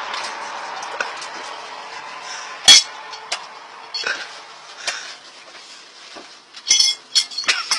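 A series of sharp clinks and knocks of hard objects, with one loud knock about three seconds in and a quick run of clinks near the end.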